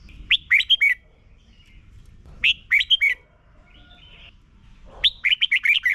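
Red-whiskered bulbul singing three short, loud song phrases, each a quick run of several clear notes, about two and a half seconds apart.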